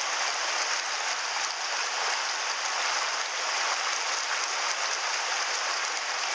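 Mountain stream flowing: a steady rush of water with no change.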